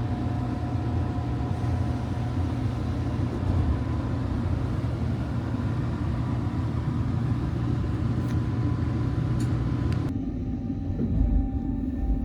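Train running, heard from inside the carriage: a steady low rumble with a faint steady whine above it. About ten seconds in the sound changes abruptly, the hiss and whine falling away and leaving a duller rumble.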